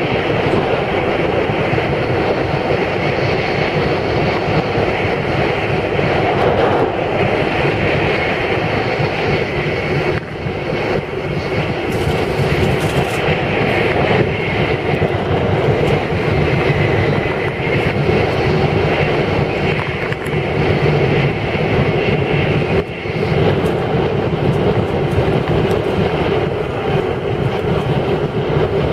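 Tokaido Shinkansen bullet train running at speed, heard from inside the passenger cabin: a loud, steady running noise that dips briefly twice.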